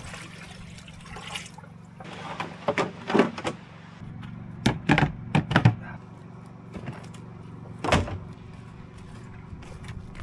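Several dull knocks and thuds, a handful in a cluster near the middle and one more later, over a steady low hum.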